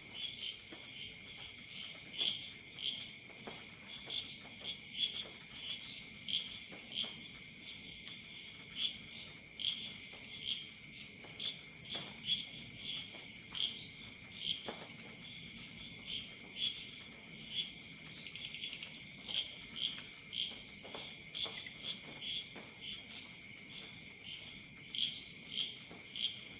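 A chorus of crickets: a steady high trill under quick repeated chirps that keep going throughout, with faint scattered crackles of a campfire.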